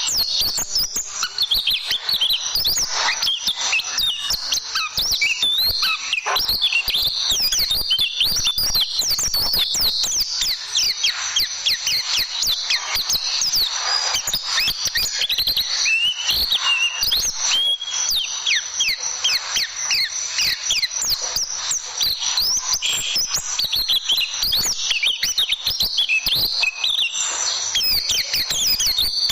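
Pleci (white-eye) song: a dense, unbroken stream of rapid high chirps and quick rising and falling whistled notes, the fast 'tembakan' burst style used to tutor caged white-eyes.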